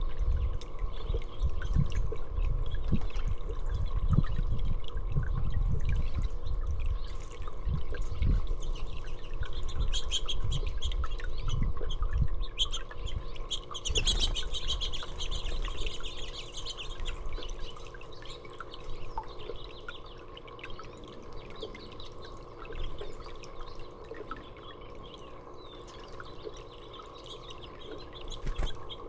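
Small birds chirping in short scattered calls, busiest around the middle, over water trickling and dripping steadily. Low rumbling bumps, loudest in the first half, sit under it all.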